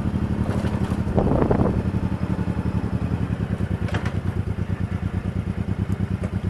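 Motorcycle engine running at a low, steady speed with an even pulsing beat, and a short noisy burst about a second in.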